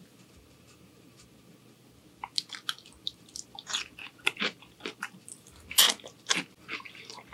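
Biting and chewing asparagus spears: a quiet start, then from about two seconds in a run of irregular crisp crunches, with the loudest bite near the end.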